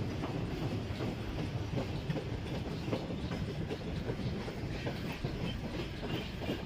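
A long train passing on the rails: a steady rumble of its wagons' wheels, with faint clicks scattered through it.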